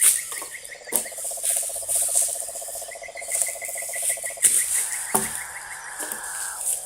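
Frogs calling in a rapid pulsed trill, with another fast ticking call above it and insects buzzing high in the background. A few sharp cracks or knocks stand out, the loudest about a second in and just after five seconds.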